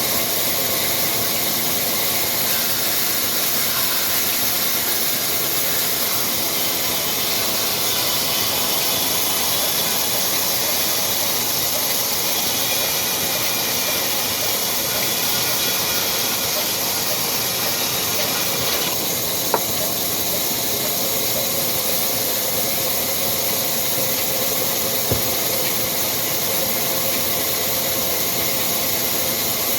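Old Ruston Hornsby diesel engine running steadily under a strong, even hiss. Two sharp clicks come about twenty and twenty-five seconds in.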